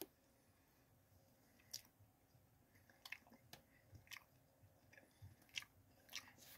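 Faint chewing of a breaded mini cheeseburger snack: soft, irregular mouth clicks and smacks.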